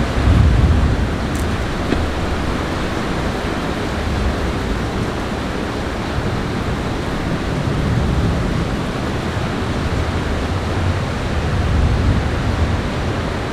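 Steady hiss of heavy thunderstorm rain, with a low rumble that swells now and then.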